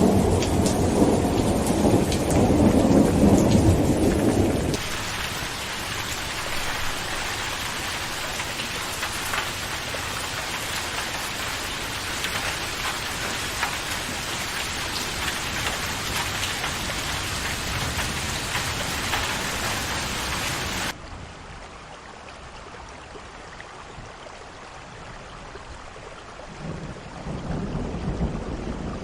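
Rain falling steadily, with a heavy low rumble over it for the first few seconds that stops abruptly, leaving an even hiss of rain. About two-thirds of the way through the sound cuts suddenly to a quieter, duller rain, and a low rumble builds again near the end.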